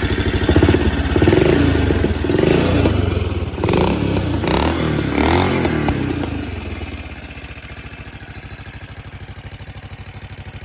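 BSA B25 motorcycle fitted with a 441 cc B44 single-cylinder four-stroke engine, running and revved in several blips of the throttle, then dropping back to a steady idle about seven seconds in.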